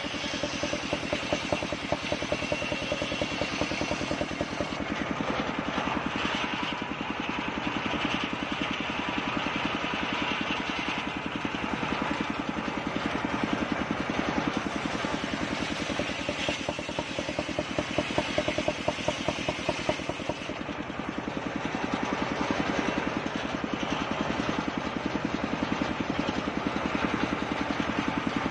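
Machine-driven circular saw running with a steady rapid pulsing, ripping kapok wood into board stock; the sound swells louder in spells as the blade works through the log.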